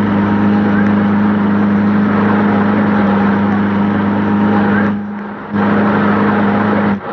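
A steady engine running with a constant low hum, dropping away briefly about five seconds in and again near the end.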